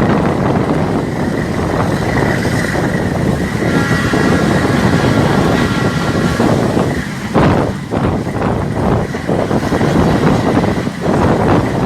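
A train running along the track, a loud steady rush of rail and wind noise, with a high steady tone sounding for a few seconds in the middle.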